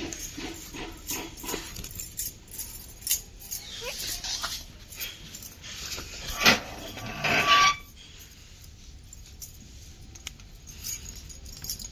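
Pet parrot making short calls and small sounds while eating, with one loud, brief squawk about seven seconds in, and scattered clicks and taps.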